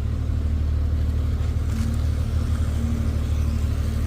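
Steady low rumble of a car engine running, with a faint steady hum above it.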